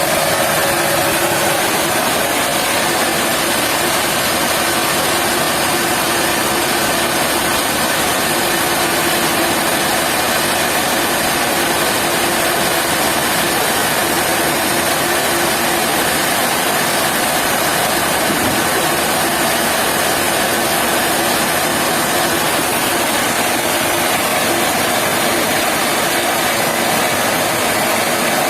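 Sawmill machinery running: a steady, unbroken machine noise that holds level throughout.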